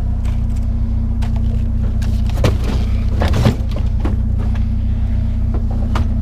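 Truck engine idling steadily, with a few clunks and knocks from scrap being handled about two and a half and three and a half seconds in.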